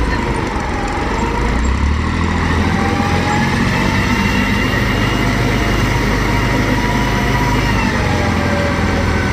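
Heavy diesel engines of a tractor and combine harvester running steadily under load, with a deep continuous drone and faint wavering higher tones.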